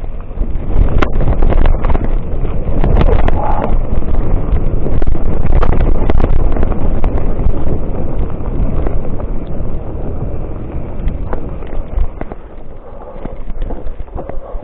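Mountain bike descending a rough trail: wind buffets the microphone with a steady low rumble, while the bike rattles and knocks over the bumps. It is loudest through the middle and eases off near the end.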